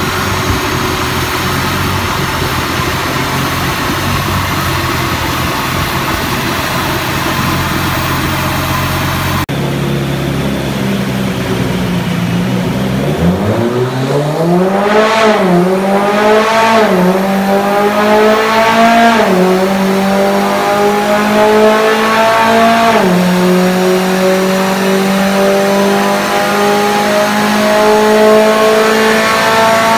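Mitsubishi Lancer Evolution X's turbocharged four-cylinder running on a chassis dyno: steady at first, then, after an abrupt change, revving up through the gears, with four sharp drops in pitch as the SST twin-clutch gearbox upshifts. Each gear climbs more slowly than the last, and the revs are still rising near the end.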